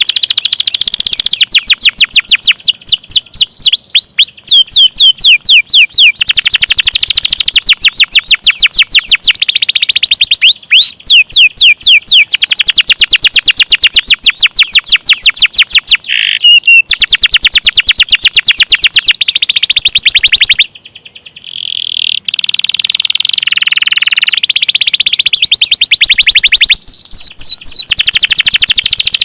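Domestic canary singing long rolls: loud, fast runs of rapidly repeated high notes, with a brief drop in level about twenty-one seconds in.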